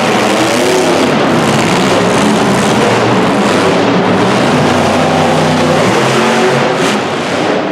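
Monster truck engines running hard in a race, their pitch rising and falling with the revs. The level eases slightly near the end.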